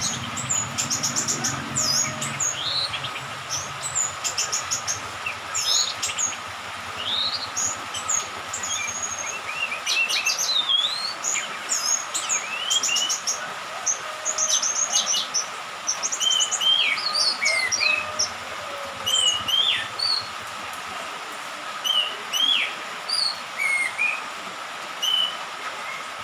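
Young orange-headed thrush (anis merah), just out of its spotted juvenile plumage, singing a varied song of short whistles, chirps and quick rattling runs of notes, phrase after phrase.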